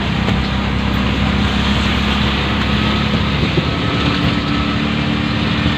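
Auto-rickshaw engine running steadily, with road noise, heard from on board.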